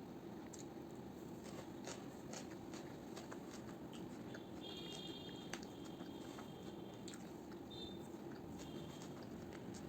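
A person chewing and eating rice and meat: quiet, scattered small clicks and mouth sounds over a steady low background hum, with a faint high tone around the middle.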